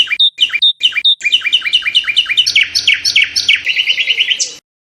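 A songbird singing one song phrase: repeated chirps at about four a second that speed up into a fast, even trill, ending with a short higher note, then stopping suddenly near the end.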